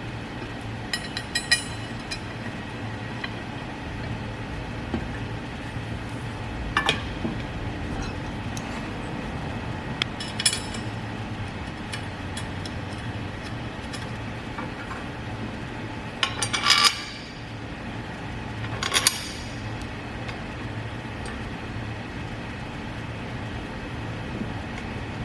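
Metal espresso-machine parts clinking and clattering as they are handled and set down: a few scattered clinks, the loudest cluster about sixteen seconds in, over a steady low hum.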